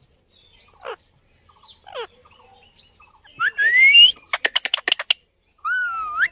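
Pet parrot whistling and calling: two short falling calls, then a rising whistle about three and a half seconds in, a quick rattle of clicks, and a long wavering whistle near the end.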